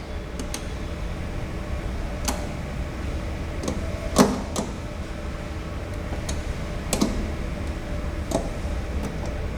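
Hand tools loosening and removing the copper lines of a fryer's fire suppression system: a few scattered light clicks and knocks, a couple of seconds apart, over a steady low hum.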